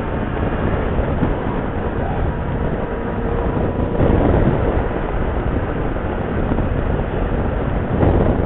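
Wind rushing over a helmet-mounted microphone on a moving motorcycle, with the bike's engine and road noise beneath. It swells louder about four seconds in and again near the end.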